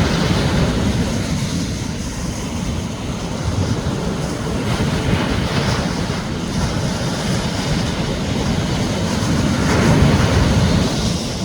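Sea waves breaking and washing on a beach, the surf swelling louder about every five seconds and loudest near the end, over a steady low rumble of wind on the microphone.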